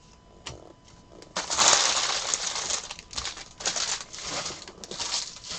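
Crinkling and rustling of trading-card packaging and cards being handled, in irregular surges over a few seconds with a few sharp clicks.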